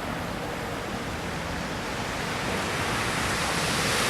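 Pacific Ocean surf rushing steadily, swelling louder near the end as a wave comes in.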